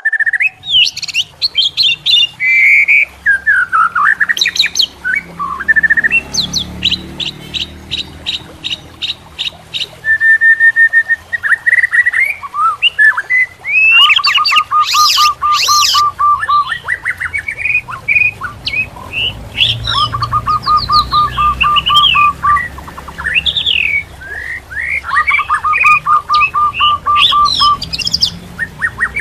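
A songbird singing continuously: a varied run of whistles, chirps and sliding notes, with a fast trill of rapidly repeated notes coming back three times.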